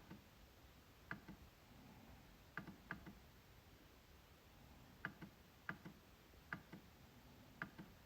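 MacBook trackpad being clicked about eight times at irregular intervals, each click a quick, sharp double tick.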